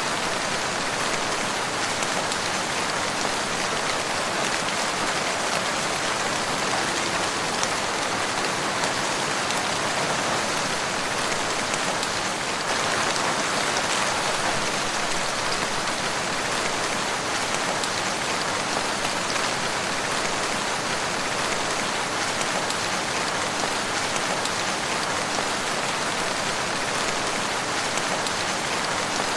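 Steady rain falling and pattering on surfaces, a dense even hiss that holds at the same level throughout.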